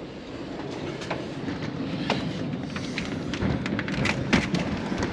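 Storm wind gusting and buffeting the microphone in a low rumble that grows steadily louder, with scattered sharp taps and knocks through it.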